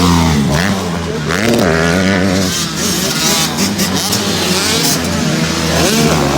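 Two-stroke motocross bikes running on the track, engines revving up and down again and again as the throttle is opened and closed, with more than one bike heard at once.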